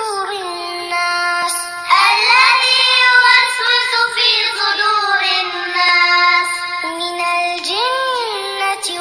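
A high voice chanting Quran recitation in a slow, melodic style, holding long drawn-out notes with gliding pitch turns.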